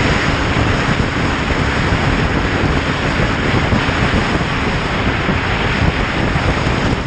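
Steady, loud wind rush buffeting the microphone of a motorcycle moving at speed, with the bike's running underneath.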